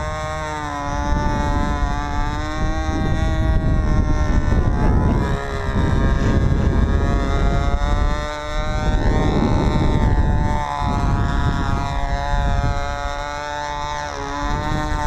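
Control-line Shark 45 stunt model's engine running steadily, its pitch rising and falling every few seconds as the plane circles. Heavy wind rumble on the microphone underneath.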